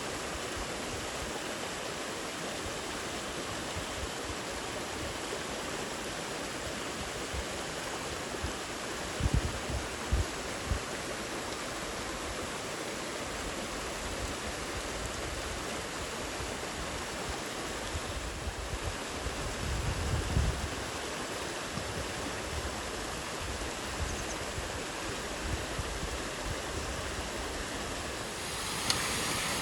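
Steady heavy rain, an even hiss with no break. A few low thumps come about a third of the way in and again about two-thirds in, and the rain gets louder just before the end.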